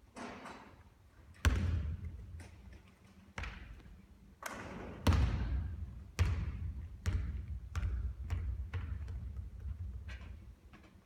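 A basketball hitting a hard court with loud thuds, the hardest about five seconds in, then bouncing again in quicker, weaker bounces that fade out as it settles.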